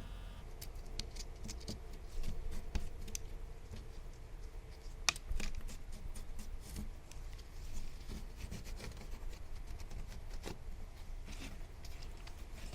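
Hand work on an old wooden window: scattered small clicks, taps and scrapes, the sharpest click about five seconds in.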